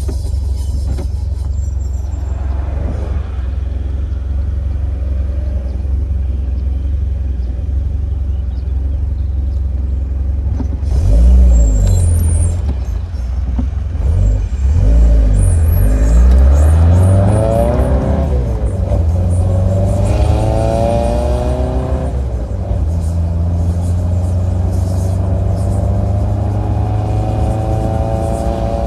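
Triumph Spitfire Mk3's 1296 cc four-cylinder engine: a steady low rumble at first, then from about eleven seconds in it pulls away under acceleration, its pitch climbing and dropping back at each of several gear changes before settling into a steady drive near the end.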